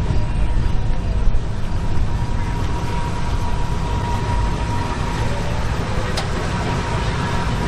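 Steady low rumble of running vehicles, with a thin steady tone held through most of it and a single sharp click about six seconds in.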